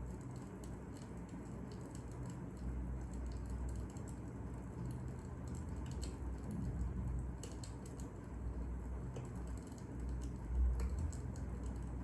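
Fire crackling: irregular small pops and snaps over a low, steady rumble.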